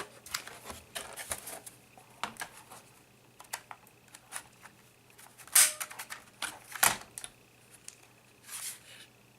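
Irregular small clicks, taps and scrapes of laptop parts and tools being handled during disassembly, with two louder knocks a little past the middle and a short scrape near the end.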